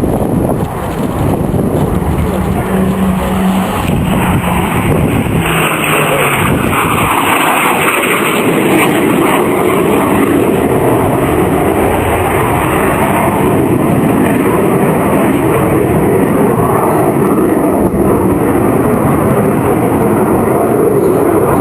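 Jet engine noise from a 1950s military jet flying a display: a loud, continuous rush with a tone that sinks slightly in pitch a few seconds in.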